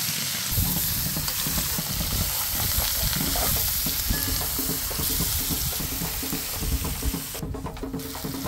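Bacon and chopped vegetables sizzling in a metal cooking pot, stirred and scraped with a plastic slotted spoon, as the vegetables cook down before the water goes in. The sizzle dips briefly near the end.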